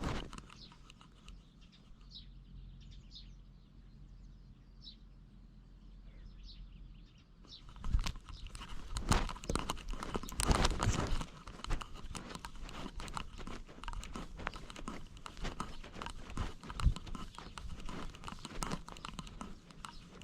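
A cat's paws scratching and crunching on the ground right beside a body-mounted camera, starting about eight seconds in after a quiet stretch with a few faint high chirps.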